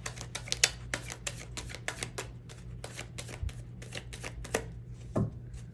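A tarot deck being shuffled by hand: a quick run of cards slapping together, several a second, that stops about four and a half seconds in, followed by a soft thump.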